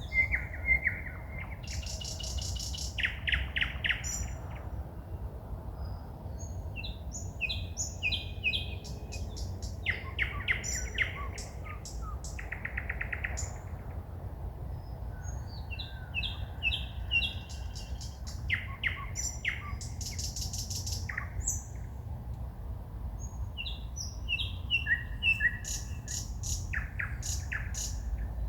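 A songbird singing at night in phrases of fast repeated notes, rattling trills and high whistles, with short pauses between phrases. A steady low rumble runs underneath.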